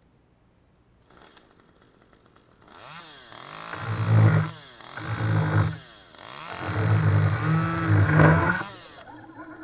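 Stihl MS 193 T top-handle two-stroke chainsaw idling, then revved up to full throttle three times, with the revs falling between bursts and dropping back to idle near the end.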